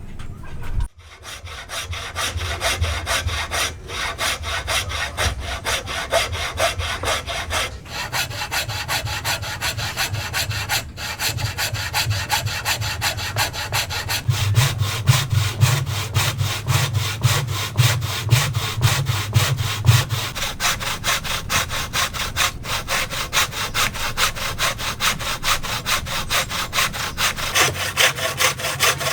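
Hand saw cutting through wood in steady, rapid back-and-forth strokes, stopping briefly a few times. There is a single thump just under a second in.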